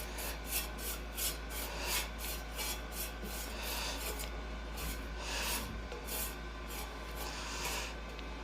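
Paintbrush strokes on metal: quick, repeated scratchy rubbing, about two to three strokes a second.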